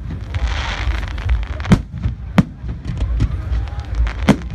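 Fireworks display going off: a fizzing hiss about half a second in, then sharp bangs and crackles every second or so over a steady low rumble.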